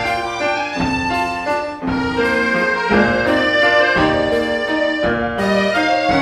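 Student chamber sextet playing classical music: several instruments sounding sustained notes together, with a new chord or note entering about once a second.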